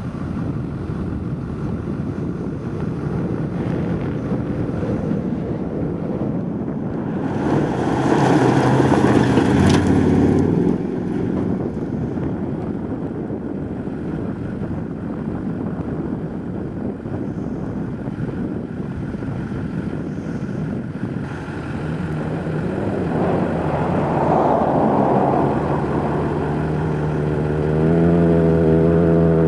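Wind buffeting the microphone over an off-road truck's engine, which swells louder twice as the truck drives past. Near the end the engine revs up hard with a rising pitch.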